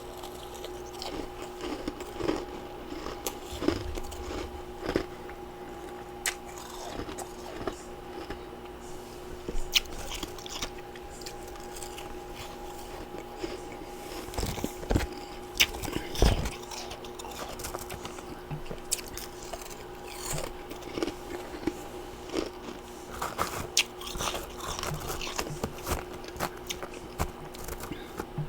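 Close-up chewing and crunching of freezer frost and ice chunks: irregular crisp bites throughout, with a few louder crunches around the middle, over a faint steady hum.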